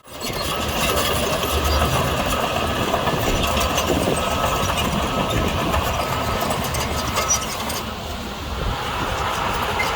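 Diesel engine of heavy earthmoving machinery running steadily, fading in sharply at the start and dipping slightly in loudness near the end.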